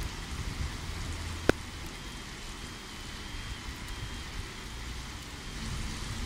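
Heavy rain falling steadily during a thunderstorm, an even hiss of rain on wet ground, with a low rumble underneath. A single sharp click about a second and a half in.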